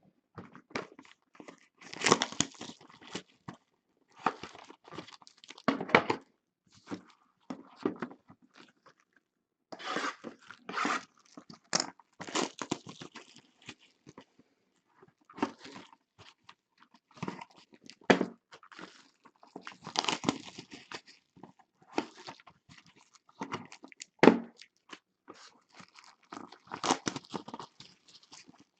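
Trading card boxes being opened by hand: wrapping torn and crinkled and cardboard handled, in irregular bursts.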